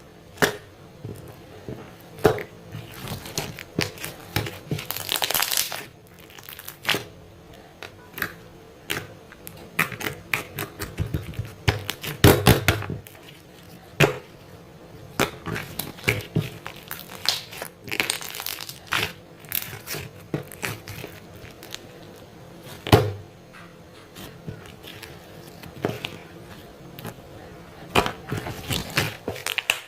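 Objects being handled at close range: irregular crinkling and rustling with sharp taps and clicks, and a louder cluster of knocks about twelve seconds in.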